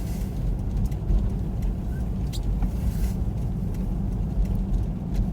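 Steady low rumble of a car heard from inside the cabin as it rolls slowly down a snow-covered road without braking, with a few faint ticks.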